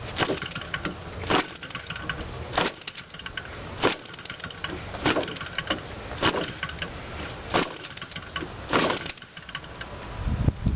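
Quatra 52cc two-stroke gasoline model-airplane engine being flipped over by hand at the propeller, firing a single pop on each flip about every second and a quarter without catching: trying to start. A denser, louder burst of engine sound begins right at the end.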